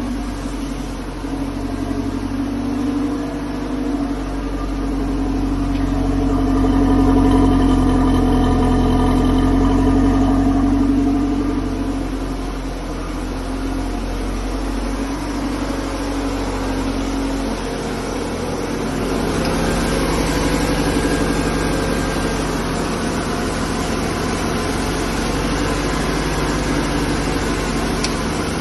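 Straight-piped Ford Escort engine running, with the revs raised and held for several seconds, then settling back to a steady run, and a smaller rise in revs again later.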